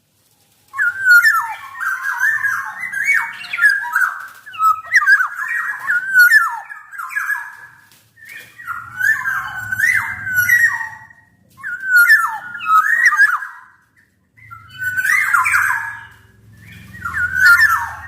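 Black-naped oriole (kepodang emas) singing in bouts of rapid, swooping whistled notes. There are about six phrases with short pauses between them.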